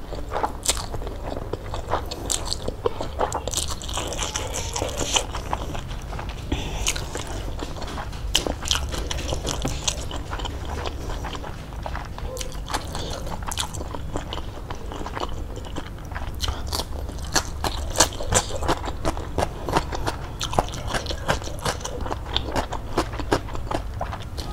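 A person chewing close to the microphone: a mouthful of noodles, then crunchy fresh cucumber and tomato, with a steady run of small wet clicks and crunches.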